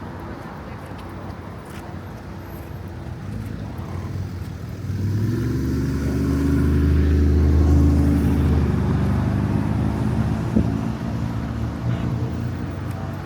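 A motor vehicle passing close by on a city street: a low engine hum comes in about a third of the way through, is loudest near the middle, and then fades away. A single sharp click follows soon after.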